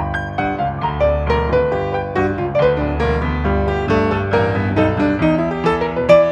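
Piano playing an instrumental break: quick runs of struck notes over sustained low bass notes, with no singing.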